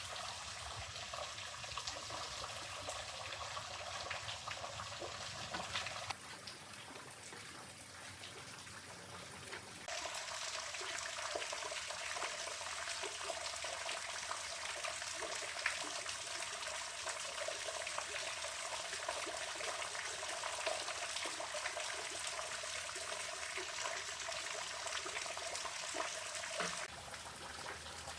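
Running water trickling and flowing steadily. The sound changes abruptly in level and tone about six seconds in, again about ten seconds in, and near the end.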